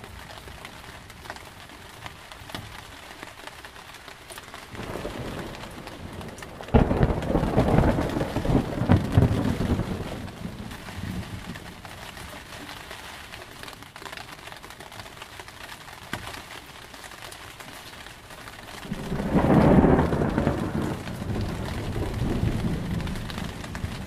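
Steady rain with two peals of thunder: the first begins as a low rumble and breaks in with a sudden crack a few seconds in, rolling on for about four seconds; the second swells up and rumbles away near the end.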